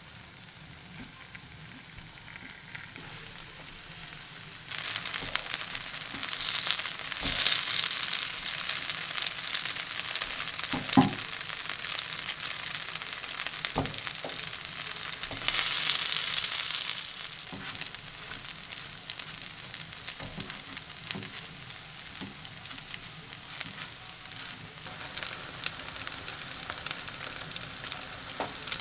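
Takoyaki batter frying in a cast-iron takoyaki pan: a steady sizzle that becomes suddenly louder about five seconds in. A few sharp taps of chopsticks against the pan come through the sizzle.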